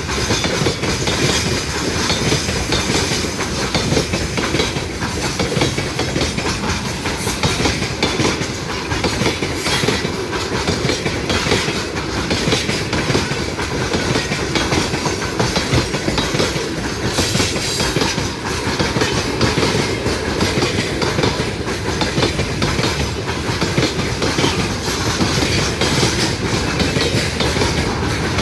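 Railway train rolling past close by, its wagons' wheels clattering steadily over the rail joints.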